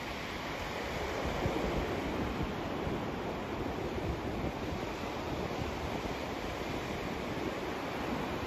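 Continuous white-noise sleep track: an even rushing hiss with no tones or beats. It is fuller in the low and middle range than in the highs, and holds the same level throughout.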